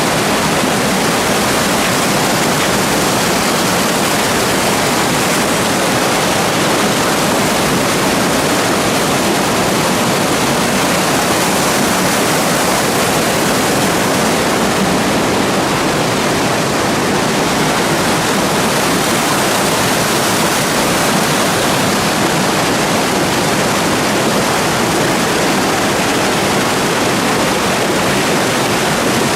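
Loud, steady rushing of white water in a mountain stream.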